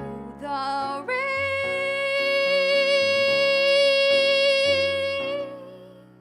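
A woman singing with piano accompaniment: a short rising phrase, then one long held high note with vibrato over changing piano chords, fading near the end.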